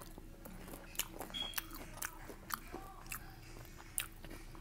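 A person biting and chewing a piece of breaded, fried food, with a few sharp crunches; the loudest comes about four seconds in.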